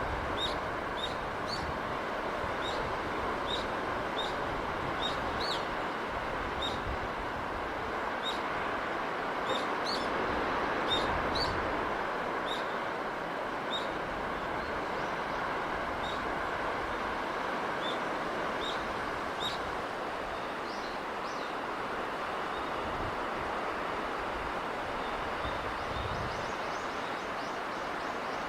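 A steady wash of sea and breeze with a small bird chirping over it, short high chirps about once or twice a second, thinning out in the last several seconds.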